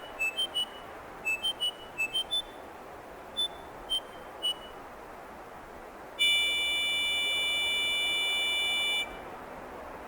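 A series of short electronic beeps at several different pitches, then a single steady electronic tone held for about three seconds, starting about six seconds in.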